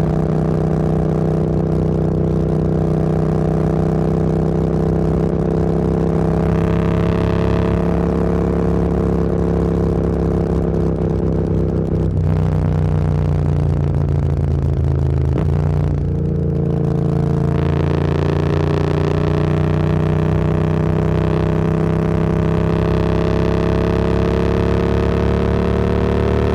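Motorcycle engine running on the road, its pitch climbing slowly as the bike gathers speed, dropping back briefly about halfway through and again a few seconds later as the throttle eases, then rising steadily again.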